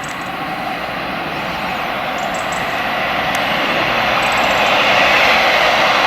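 Train approaching on the line, a steady roar growing louder.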